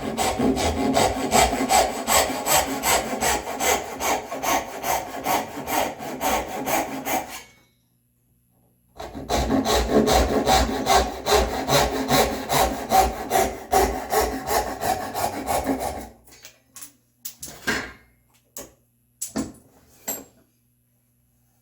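Hand saw cutting into red oak in quick, even back-and-forth strokes. There are two runs of about seven seconds each with a short pause between them, then a few light knocks and clicks.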